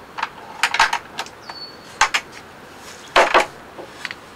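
Door and footstep knocks of someone stepping into a small wooden cabin: scattered sharp clicks and knocks, with a louder rustling clatter about three seconds in. A short, high whistle-like note sounds once about a second and a half in.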